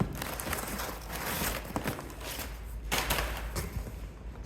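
Parts being rummaged in a cardboard box: packaging rustles in patches, with a few light knocks.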